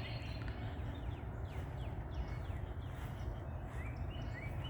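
Songbirds calling in the trees, a scatter of short, quick notes sweeping downward, over a steady low rumble.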